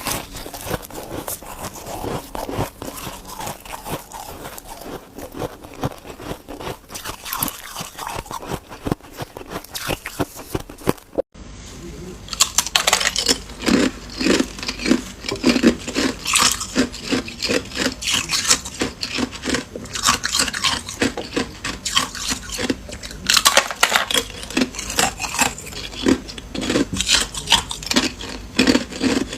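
A person biting and chewing ice close to the microphone: dense, irregular crunching and cracking. About 11 seconds in there is a brief cut, after which the crunches come louder and sharper.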